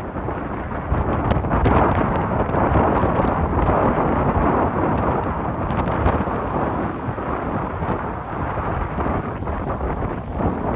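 Strong gusty wind buffeting the microphone: a continuous rushing, rumbling noise that swells and eases with the gusts.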